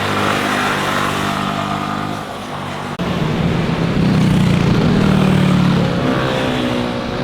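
Motorcycle engines running past on the road; a louder one comes in about three seconds in, and its engine pitch rises near the end as it accelerates.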